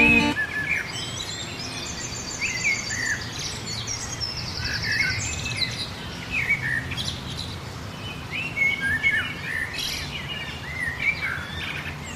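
Songbirds chirping and calling: many short slurred whistles and chirps, with a fast trill twice in the first half, over a steady outdoor background hiss.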